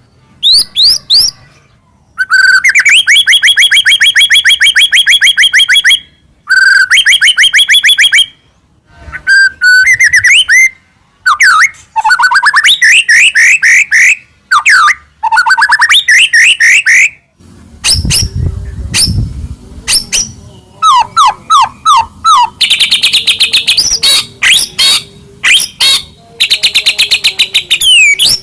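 White-rumped shama (murai batu) singing loudly in full song: long runs of rapid repeated notes and trills, broken by short pauses into varied whistled phrases. A brief low rumble sounds under the song about two-thirds of the way through.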